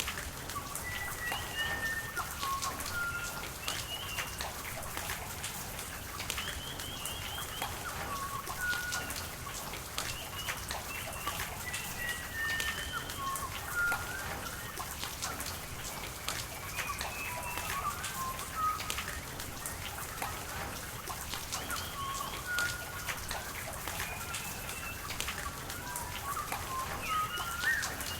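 Rain falling with scattered sharp drips over a steady patter, while small birds call and trill repeatedly with short whistled notes.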